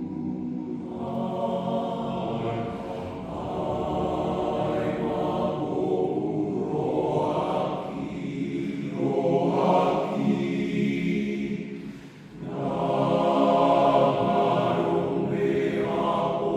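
Men's choir singing a Batak hymn in several parts, holding long chords, with a brief break for breath about twelve seconds in.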